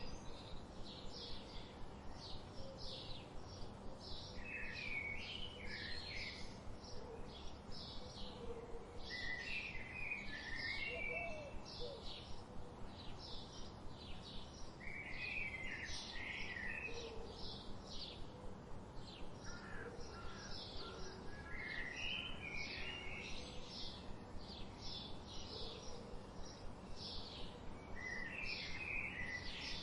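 Wild birds singing: one bird gives a steady run of short, high chirps, several a second, while another breaks in with a brief warbled phrase every five or six seconds, over a faint steady background hiss.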